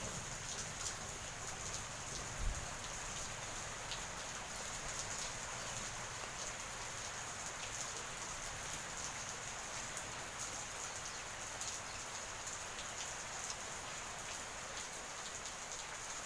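Steady rain falling, with individual drops pattering and clicking on a surface, and a steady high-pitched hiss running under it. A single brief low thump comes about two and a half seconds in.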